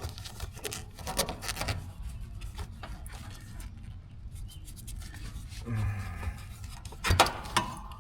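Rubbing and scraping with scattered clicks and knocks as copper refrigerant tubing and fittings are handled, with a louder cluster of knocks near the end.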